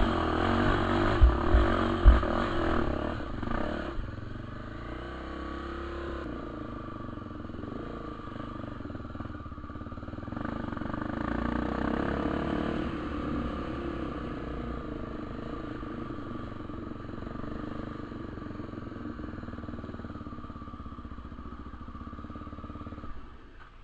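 Trail motorcycle engine running and changing pitch as the throttle is worked. It is loudest for the first few seconds, with a couple of sharp knocks, then settles to a quieter running sound that fades near the end.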